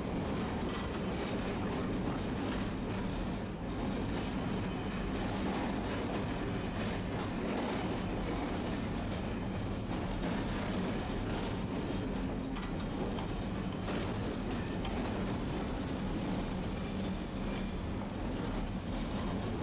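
Tosaden streetcar running along its line, heard from inside the car: a steady rumble of wheels on rail with a low motor hum and a few light clicks.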